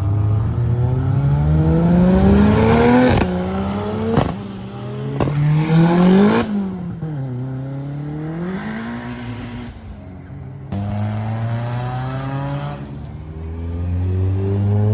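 Car engines revving and accelerating away. The pitch climbs hard for about three seconds and drops suddenly, climbs again around five to six seconds in, falls away, then rises once more near the end.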